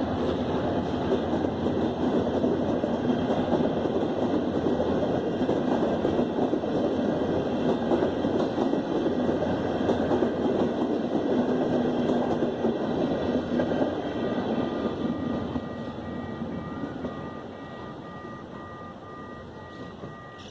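Passenger train passing, its wheels and carriages rumbling and clattering over the rails, fading away after about 14 seconds as it moves off. A repeating two-tone beeping starts as the train fades.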